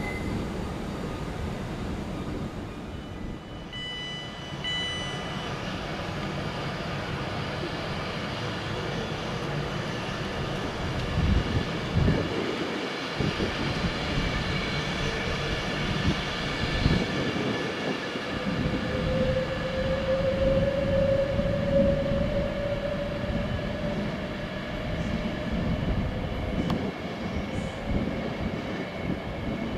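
Electric or diesel train running through the station, with a steady rumble of wheels and machinery and a slowly rising whine in the middle. There are a few short high beeps around four seconds in.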